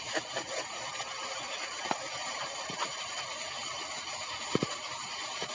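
Steady hiss of a vehicle running, heard from inside the cabin, with a few faint clicks.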